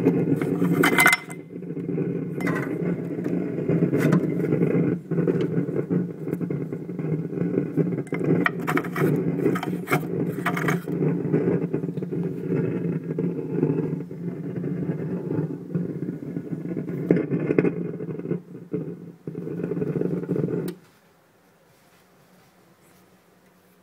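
Continuous crackling rattle coming from a Porsche GTS's bumper area, not a mechanical sound. It cuts off suddenly near the end, when the bumper is pressed, so a loose or vibrating bumper part is the likely source.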